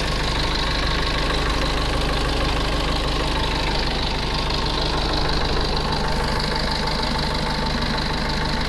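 2011 Mitsubishi Fuso engine idling at a steady speed, with a faint steady whine over the running.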